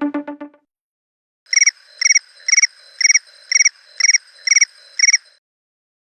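iPhone ringtone made of cricket-like electronic chirps: eight short chirps, about two a second, starting about a second and a half in. Before them, the last notes of the previous synth tone die away.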